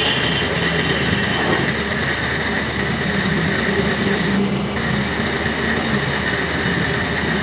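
Metal lathe running, a steady mechanical clatter with a high whine over a low hum, as a part for a Massey Ferguson tractor's crown-and-pinion bearing is machined.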